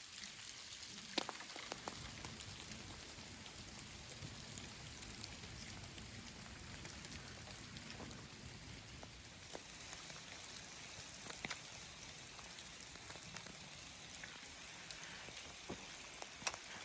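Meltwater and small bits of ice dripping and pattering down from ice-glazed trees as the ice melts: a faint, steady rain-like patter with a few sharper ticks of falling ice.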